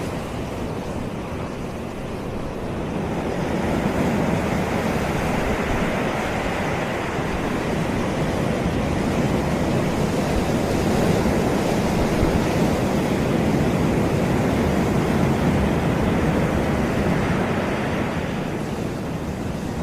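Waves breaking and washing up a sandy beach in a steady rush of surf, swelling a few seconds in and easing off near the end, with some wind on the microphone.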